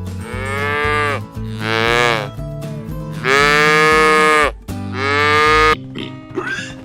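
Cow mooing four times, each moo bending down in pitch at its end. The third moo is the longest and loudest.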